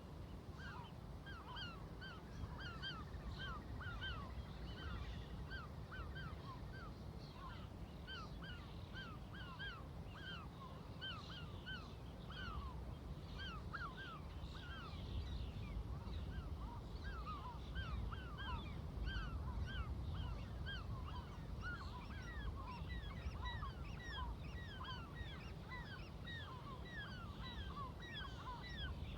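A flock of seagulls calling, many short overlapping calls several a second. A steady low rumble runs underneath.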